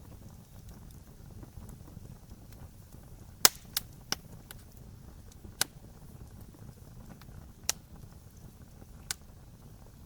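Wood campfire burning with a low steady rumble, broken by sharp pops of crackling wood, about six in all, the loudest a little over three seconds in.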